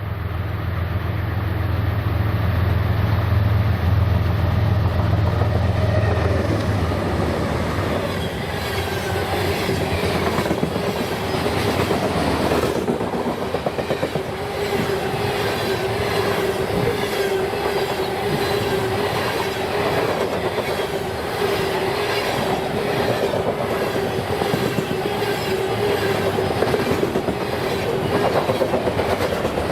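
BNSF freight train passing close by: the low drone of its diesel locomotives fades away over the first several seconds, then the freight cars roll by with a steady, rhythmic clickety-clack of wheels over the rail joints and a steady tone underneath.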